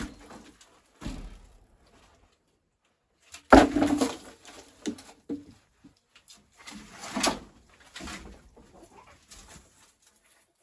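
A few irregular knocks and clunks, the loudest about three and a half seconds in, with quiet gaps between them.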